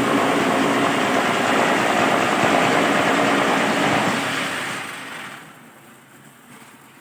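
QTJ4-25 concrete block making machine running, a loud steady mechanical drone that fades away about five seconds in, leaving a much quieter background.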